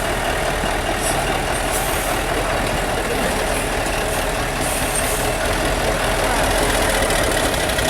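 Heavy off-road trial truck's diesel engine running steadily at low revs.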